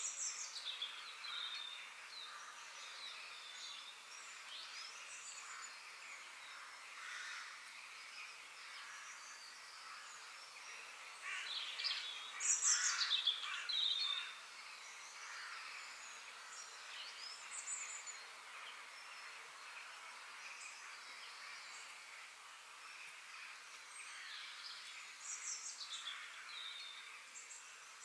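Several songbirds chirping and singing over a faint steady background hiss, with a louder burst of song about halfway through.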